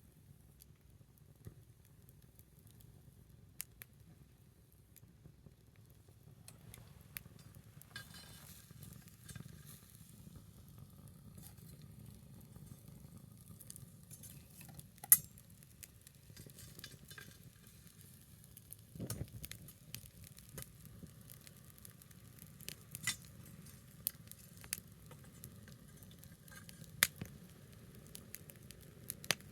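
Small wood fire burning low, hissing faintly and crackling, with scattered sharp pops of burning wood; the loudest pop comes about halfway through.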